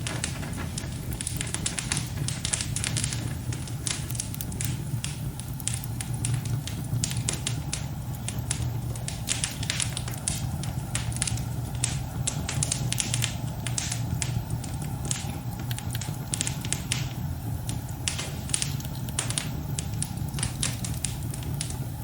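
Wood fire crackling in a fireplace: irregular sharp pops and snaps over a steady low rush of the flames.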